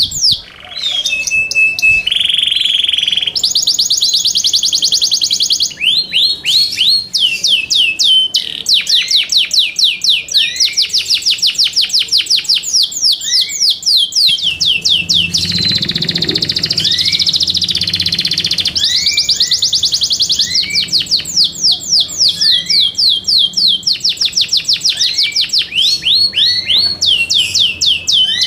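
Yorkshire canary singing a long continuous song of fast trills, each made of rapidly repeated falling notes, with a held whistle and a buzzy phrase near the start.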